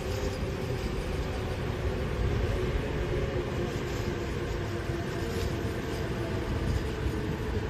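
Tobu 100 series Spacia electric limited-express train passing at speed. There is a steady rumble of wheels on the rails, with a few steady humming tones over it.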